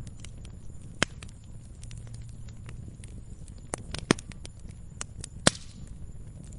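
Wood campfire crackling: irregular sharp pops and snaps over a low, steady rumble of the flames. The loudest pops come about a second in, around four seconds in, and a little after five seconds.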